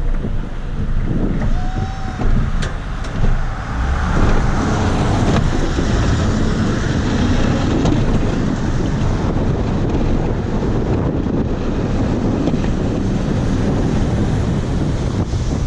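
Pickup truck engine running steadily under load while pushing snow with a plow, with wind buffeting the microphone.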